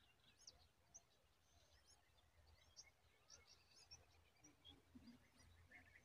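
Faint outdoor bird chirps: scattered short, high call notes from birds in the surroundings, over a faint steady low hum.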